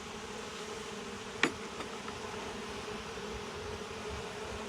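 A swarm of Saskatraz honeybees buzzing in a steady hum, with one sharp click about a second and a half in.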